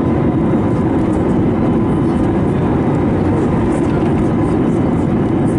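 Steady roar of engine and airflow noise heard inside the cabin of an Airbus A321neo airliner with CFM LEAP-1A engines, even and unchanging, with a faint steady hum above it.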